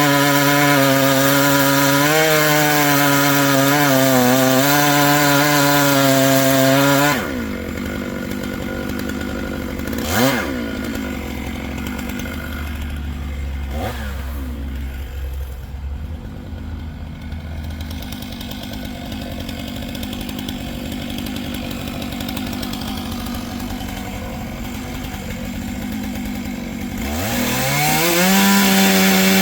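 Gas chainsaw running at full throttle in a cut through oak, its pitch wavering under load. About seven seconds in it drops back to idle, with two quick blips of the throttle. Near the end it revs back up to full speed.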